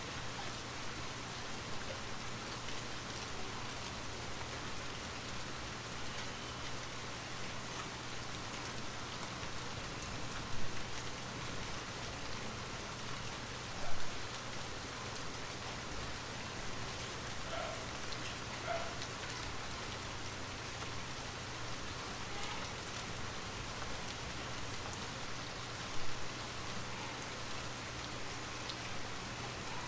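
Steady rain falling, an even continuous hiss of drops on surfaces, with three brief louder taps partway through.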